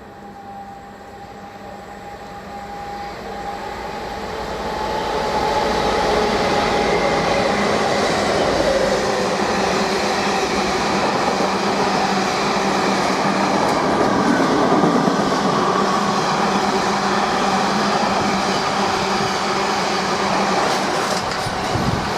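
A diesel train approaching and running through: it grows steadily louder over the first five or six seconds, then gives a loud, steady rumble and rattle of wheels on rail as it passes.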